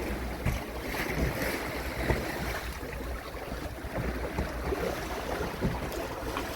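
Small sea waves washing, with wind buffeting the microphone as a steady low rumble.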